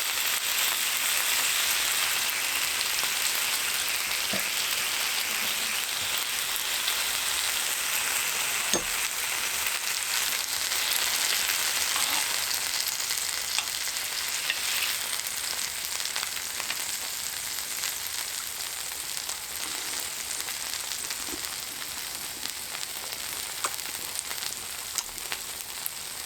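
Food sizzling in a hot frying pan, a steady hiss with a few light clicks, slowly getting quieter.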